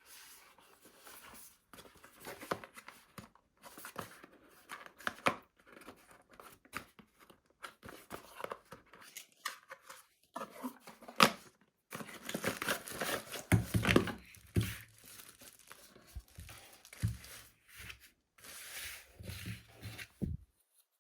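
Packaging being opened by hand: irregular crinkling and tearing of plastic and paper, with scattered clicks and knocks of handling.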